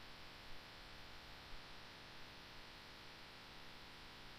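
Near silence: a faint, steady hiss and hum.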